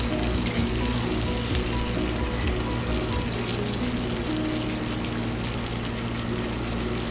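Wet mutton masala sizzling in hot coconut oil in a heavy pan as it is stirred with a metal spatula, the start of cooking it down to a dry mutton varattu. Background music plays underneath.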